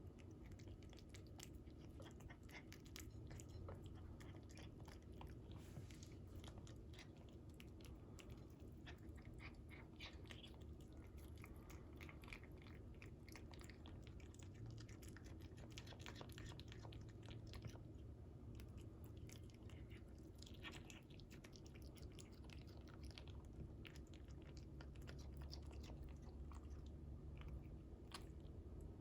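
A cat chewing cooked salmon: faint, irregular wet chewing with many small clicks of teeth.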